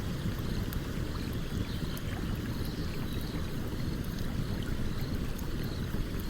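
Steady rush of a flowing stream, with faint, scattered crackles from a wood campfire.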